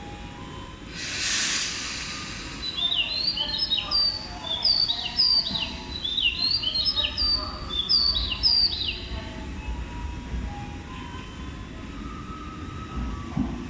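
A short burst of hiss about a second in, then a run of quick, high chirps, each falling in pitch, repeated in a regular pattern for about six seconds.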